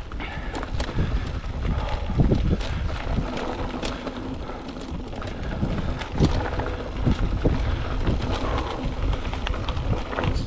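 Mountain bike riding over dirt singletrack: tyre rumble with frequent rattles and knocks from the bike over bumps, and wind buffeting the microphone.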